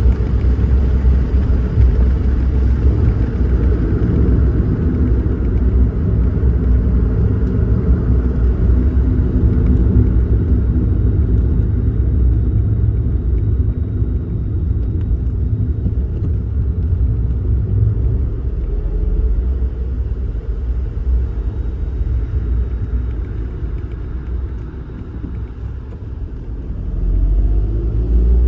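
A Suzuki Kei Works car driving, with a steady low rumble of road and engine noise. It eases off about three-quarters of the way through, then picks up again near the end as the engine rises in pitch.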